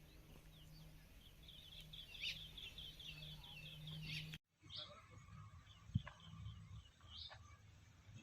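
Small birds chirping faintly, a quick run of high repeated chirps, then a few scattered calls after a sudden break, over a low steady hum. A single sharp click comes about six seconds in.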